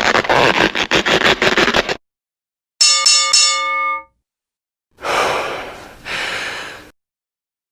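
A string of short sound effects: a dense clattering rattle that cuts off about two seconds in, then a ringing bell chime struck a few times, then two short noisy bursts that each fade away.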